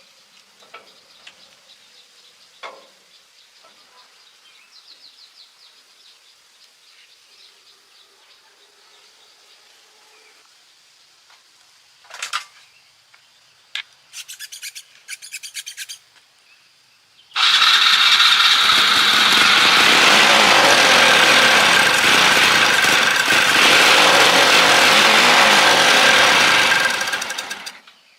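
Scattered clicks, then a few short bursts of rapid mechanical ticking, then a loud machine runs steadily for about ten seconds and stops.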